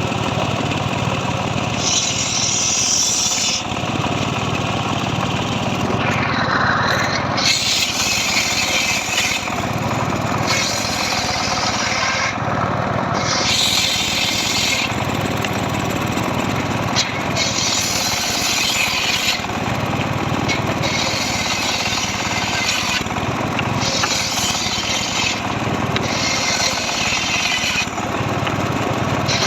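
Engine-driven power saw cutting dry mahogany, running without a break while the sharper cutting sound comes and goes every second or two.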